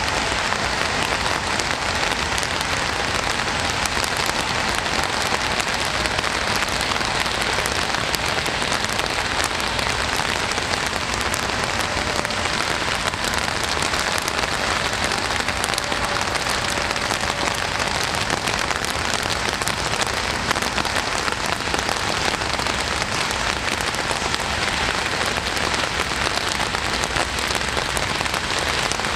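Steady rain falling and pattering on surfaces, a dense even hiss of many small drop hits.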